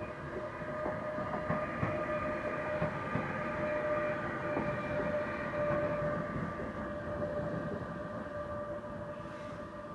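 Freight train rolling past, its wheels knocking over the rail joints under a steady high-pitched tone. It grows louder, peaks about halfway through, then fades away.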